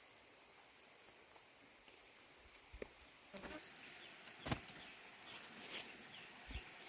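Quiet outdoor background with a few scattered short knocks and rustles starting about three seconds in, and faint short high chirps in the second half.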